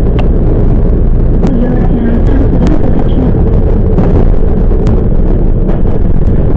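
Running noise of a Toyama Chiho Railway 10030 series electric train heard from inside the passenger car: a loud, steady rumble of wheels on rail with scattered sharp clicks.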